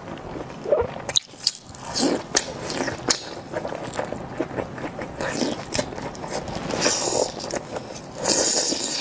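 A person biting and chewing a soft, chili-sauced sausage ring right at the microphone, with irregular wet clicks and smacks. There is a louder breathy burst near the end.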